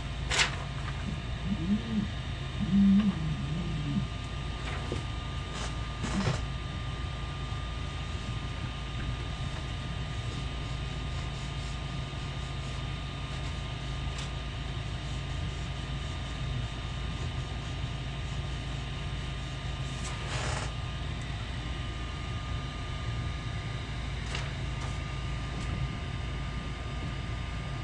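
Steady fan hum with a few thin whining tones, broken by three short light clicks.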